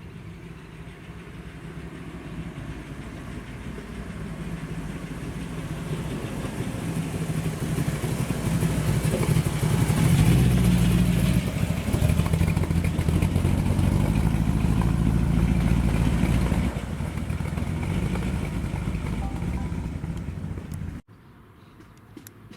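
American car's engine running with a low, steady rumble that grows louder over the first ten seconds as the car draws near. It holds there for several seconds, drops somewhat near 17 s, and cuts off abruptly about 21 s in.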